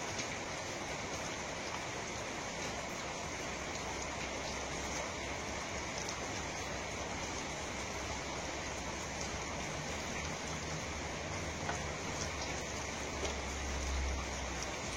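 Steady hiss of water, as of rain or running water, with faint scattered ticks. A low rumble swells near the end.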